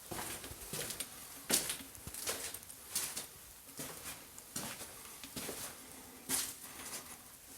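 Footsteps on a hard floor indoors, a steady walking pace of about one step every three-quarters of a second, each step a short sharp scuff.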